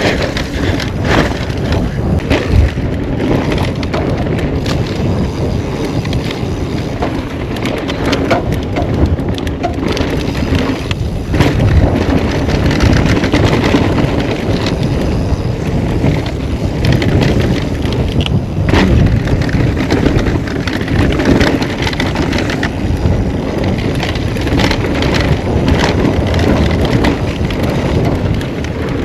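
Mountain bike descending a rocky dirt trail: tyres rolling and crunching over dirt and rock, with the bike rattling and clattering through many sharp knocks as it hits bumps.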